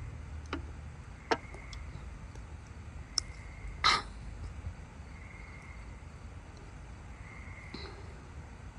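Backyard wood fire crackling, with a few sharp isolated pops and a louder, short noisy burst about four seconds in, over a steady low hum.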